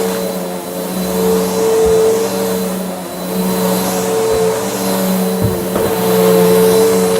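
Bissell vacuum cleaner running, its motor humming steadily with the pitch dipping and returning every couple of seconds, while the brushroll crunches up debris with a few short crackles.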